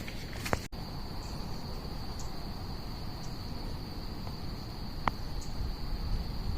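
An insect, cricket-like, singing one steady unbroken high tone that starts just under a second in, over a low rumble. A single sharp click a little after five seconds.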